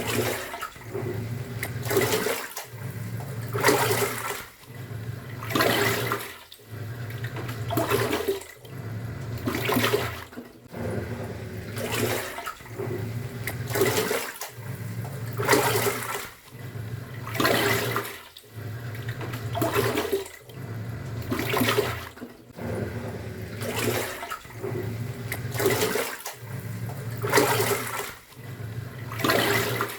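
Top-loading pulsator washing machine agitating a load. The pulsator churns the water in strokes of about two seconds, with a motor hum under each stroke and a brief pause as it reverses direction.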